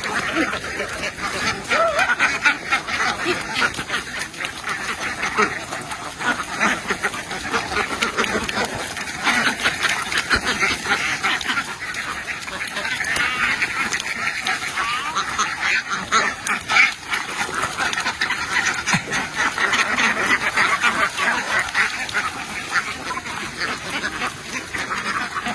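A massive flock of domestic ducks quacking continuously, many overlapping calls at once forming a dense, steady din.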